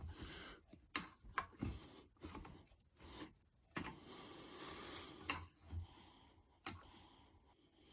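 Faint clicks and scraping of metal parts being worked by hand on a dismantled car air suspension compressor, as its binding piston is forced round past a tight spot. A few sharp clicks are scattered through, with a soft scraping hiss about halfway through.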